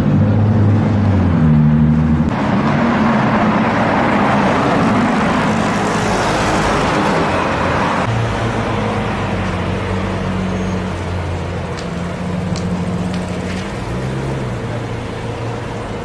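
Supercar engines running at low speed in city traffic: an Aston Martin DB11 at first, then a Lamborghini Aventador S's V12, the low engine note stepping in pitch as the car moves off. A rushing noise rises about two seconds in and fades after about eight seconds, and a few sharp ticks come near the end.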